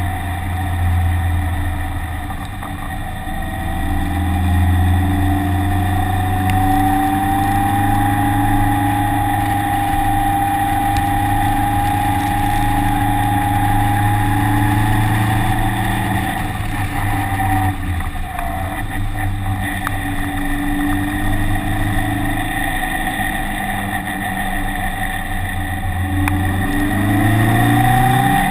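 Vehicle engine running hard, lapping a wet track: the note holds fairly steady, drops and breaks up for a few seconds past the middle as it slows, then climbs sharply near the end under acceleration.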